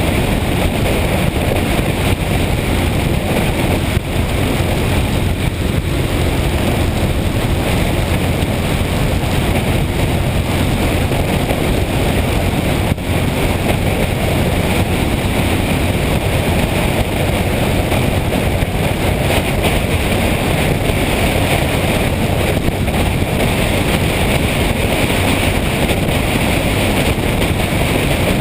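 Motorcycle being ridden at steady speed, with the engine running and wind rushing over the microphone. The noise is loud and steady, with no break or change.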